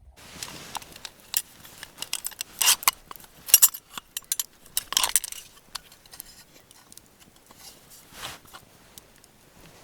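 Light metallic clinking and clattering of small objects being handled, with louder knocks about three to five seconds in and again near eight seconds.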